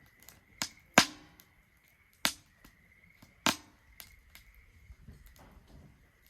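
Wood fire in a Solo Stove Ranger fire pit crackling, with four sharp pops, the loudest about a second in, and lighter ticks between them.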